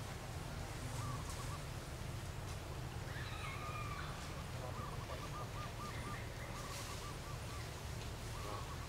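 Birds calling over a steady low background rumble: a warbling trill, repeated several times, and one higher call a few seconds in.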